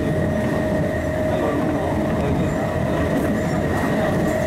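East Rail line MLR electric multiple unit running steadily, heard from inside the car: a continuous rumble of wheels on rail with a steady high whine held at two fixed pitches.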